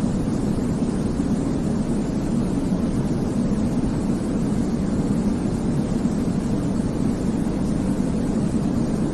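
Baby-sleep white noise: a steady, even rushing hiss weighted toward the low end, deep and rumbling, with no changes or breaks.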